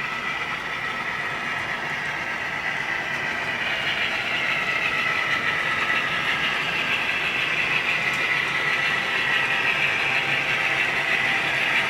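HO scale model train running on track, a steady whirring running noise that slowly grows louder as it comes closer.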